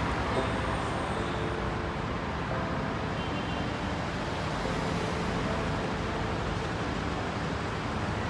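Steady vehicle noise: an even rush and rumble that holds at one level, with faint humming tones coming and going in it.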